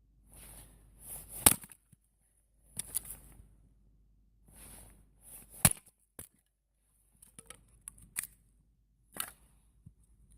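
A series of sharp, irregular cracks and knocks, the loudest about one and a half seconds and five and a half seconds in, with short bursts of high hiss between them.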